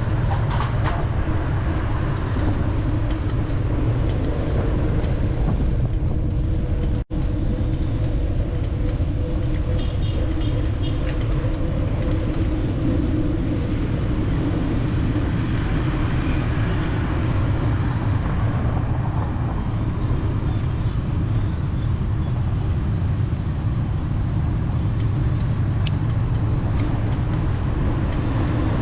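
Steady city street traffic, with engines running and passing on all sides. The sound cuts out for a split second about seven seconds in.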